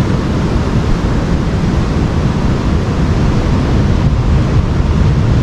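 Steady wind noise on the microphone mixed with ocean surf, heaviest in the low end and unbroken throughout.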